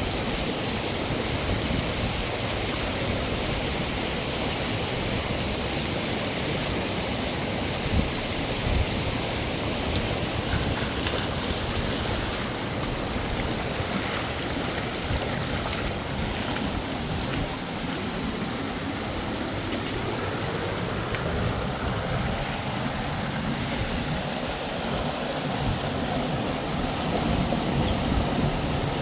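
Steady rushing of a flowing mountain river.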